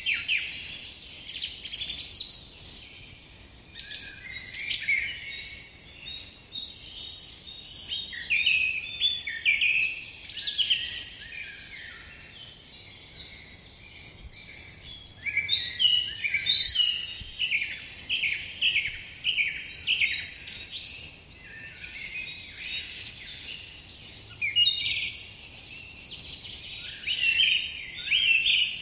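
Several birds singing and calling, with many overlapping chirps and short trills, and a run of quick repeated notes about halfway through.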